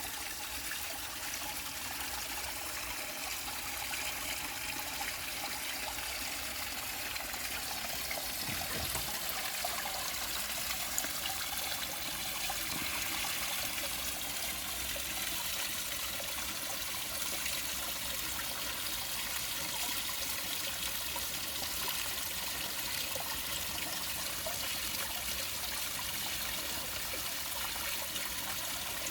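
Small waterfall into a fish pond, water trickling and splashing steadily.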